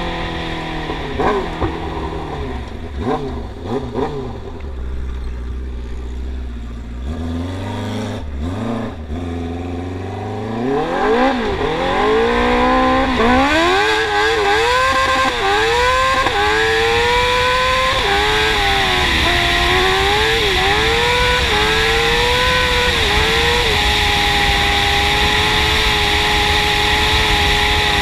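Yamaha R6 inline-four engine in a YFZ450 quad, blipping unevenly at low revs at first, then accelerating hard through the gears about ten seconds in, the pitch climbing and dropping back at each shift, before settling into a steady high-revving run near the end.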